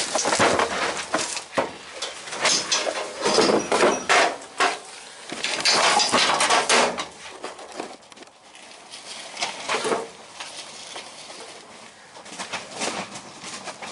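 Irregular metallic clattering and knocks, dense for the first half and sparser after.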